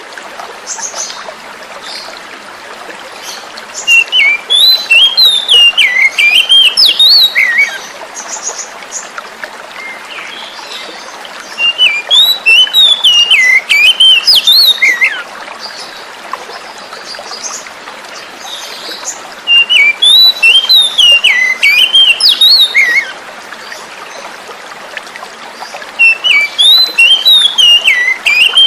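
Oriental magpie-robin (kacer) singing loud, varied warbling phrases of about three seconds each, four times, roughly every eight seconds. Under the song runs a steady rush of flowing water.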